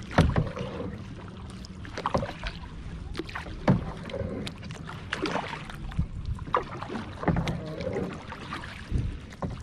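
Kayak paddle strokes splashing in the water, roughly every second and a half, over a low steady rumble of wind on the microphone.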